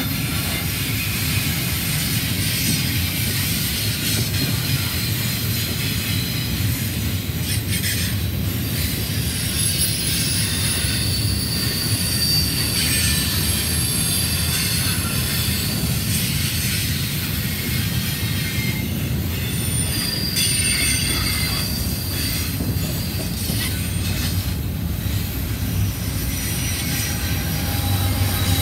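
CSX double-stack intermodal freight train rolling past, its container-laden well cars giving a steady rumble, with high-pitched wheel squeal coming and going several times.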